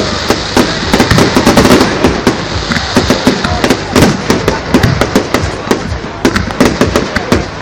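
Fireworks going off in rapid succession, many sharp bangs and crackles overlapping with hardly a break.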